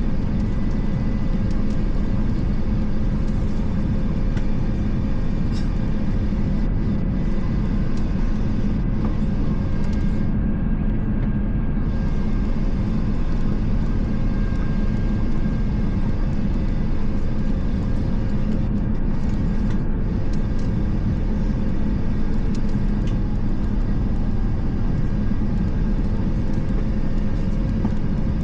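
Steady cabin drone of an Airbus A350 in flight, heard from inside the passenger cabin: engine and airflow noise, strongest in the low range, with a faint steady hum under it.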